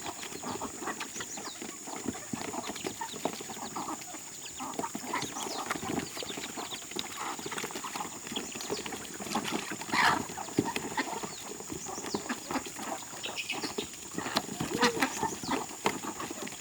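A flock of farmyard poultry, ducks and chickens, calling and clucking in many short, overlapping calls.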